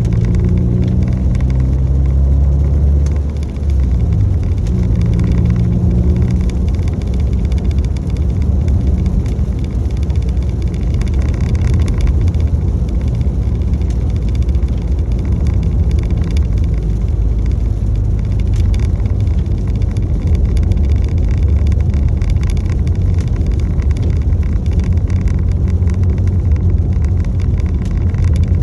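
Car on the move: steady engine and road rumble with a constant hiss above it. The engine's low tones shift in pitch a few times in the first several seconds, then settle.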